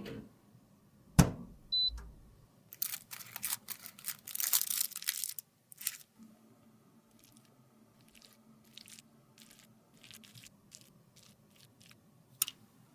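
Close-up handling of makeup: two sharp knocks, then a few seconds of dense crunching and scraping as product is crushed, followed by scattered light clicks and taps.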